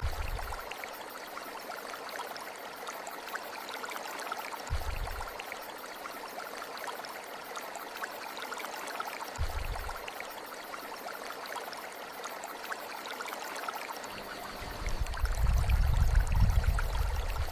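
Steady rushing flow of a stream. A soft low rumble rises about every five seconds, and a longer, louder one comes near the end.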